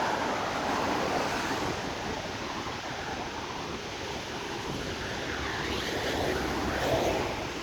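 Cars driving through water on a rain-soaked road: tyre hiss and spray, swelling as vehicles pass, loudest near the end.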